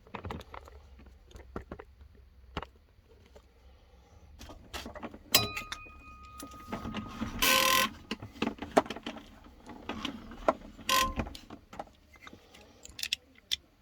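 Two short hissing blasts of air blown through a small-engine carburettor to clear it, the longer about half a second, among clicks and clinks of small metal parts and tools. One piece of metal rings briefly about five seconds in.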